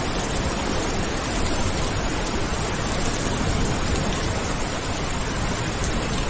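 Steady heavy rain: a continuous even hiss of falling water with no distinct drops or breaks.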